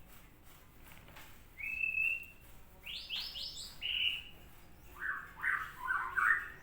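A bird chirping in short whistled notes: one note about one and a half seconds in, a quick falling run of notes about three seconds in, then several lower chirps near the end.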